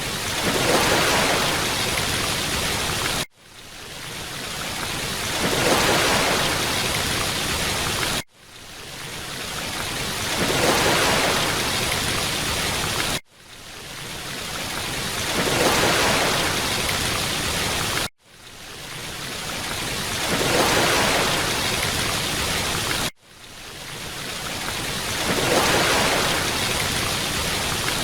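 Looped rushing-water noise that repeats about every five seconds. Each pass fades in, swells about halfway through and then cuts off abruptly before starting again.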